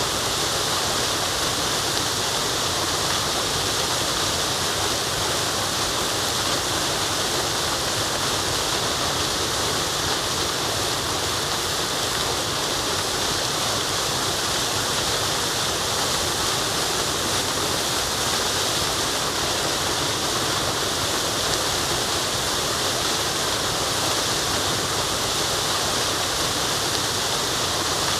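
Waterfall rushing steadily: an even, unbroken wash of falling water, strongest in the hiss.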